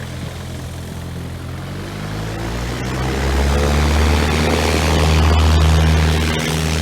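Propeller aircraft engine running, growing louder from about two seconds in to a peak near the end, then easing slightly.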